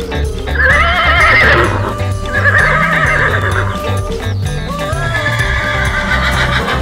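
Horse whinny sound effects, three neighs one after another, the first with a strong waver, laid over background music with a steady beat.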